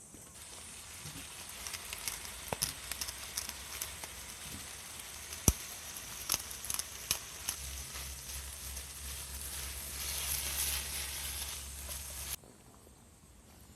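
Sizzling and crackling of cooking over a campfire, with scattered sharp pops. The sound grows louder near the end, then cuts off abruptly.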